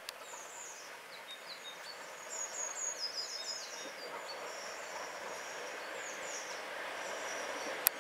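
Small birds chirping over the low running noise of an approaching 'Thumper' diesel-electric multiple unit, which grows slowly louder. A single sharp click sounds just before the end.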